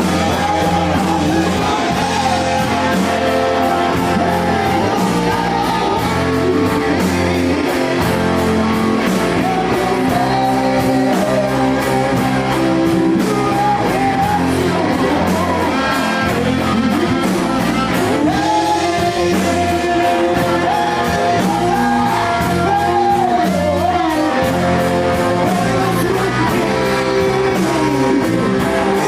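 A rock band playing live: electric guitars, bass and drums, with a singer's voice over them.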